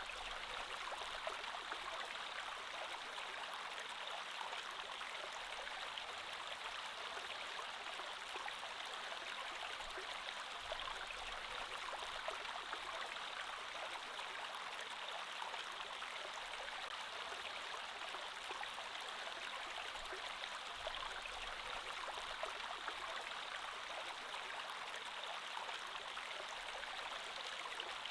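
Creek water flowing steadily: an even, continuous rush of running water flecked with small splashes.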